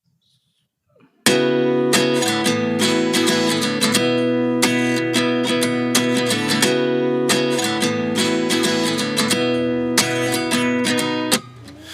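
Background music: an acoustic guitar strummed in a steady rhythm, starting suddenly about a second in and dropping away just before the end.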